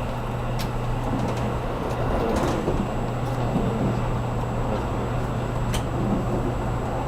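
Running noise inside a JR Kyushu 783 series limited express car: a steady rumble with a constant low hum, broken by a few brief sharp clicks.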